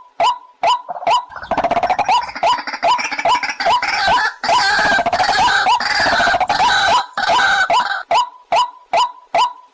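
White-breasted waterhen calling: a steady run of short repeated notes, about two a second. From just after the start until near the end these are joined by a dense stretch of overlapping harsher calls, and then the single repeated notes carry on alone.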